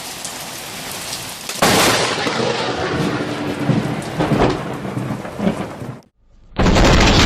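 Steady rain falling, then about one and a half seconds in a loud thunderclap breaks out and rumbles on for about four seconds before cutting off. After a brief silence a different loud, bass-heavy noise starts near the end.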